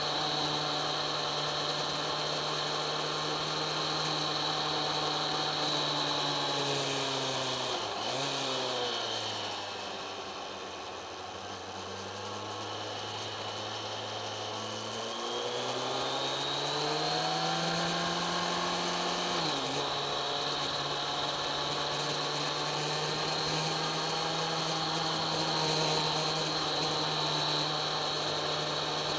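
Kawasaki ZX-10R's inline-four engine running at steady cruising revs. About eight seconds in the revs fall and stay low as the bike slows through a bend. From about fifteen seconds they climb again, then drop sharply at a gear change near twenty seconds and hold steady.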